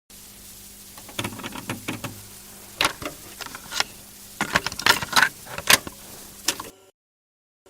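Irregular sharp clicks and knocks, a dozen or more, over a low steady hum; they stop about a second before the end.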